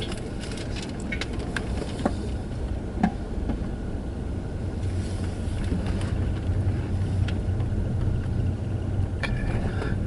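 Steady low road and tyre rumble inside the cabin of a moving 2017 Tesla Model S, an electric car with no engine note, with a few light clicks.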